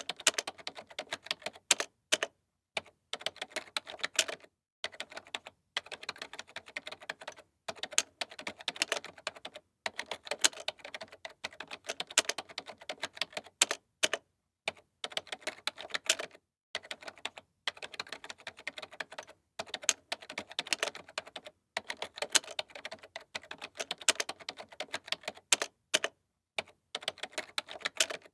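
Computer keyboard being typed on: quick runs of keystroke clicks, broken every second or two by short pauses.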